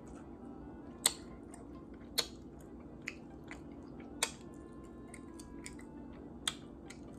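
A person chewing a mouthful of fufu and meat: wet mouth clicks and smacks, four sharper ones spread through, with softer clicks between.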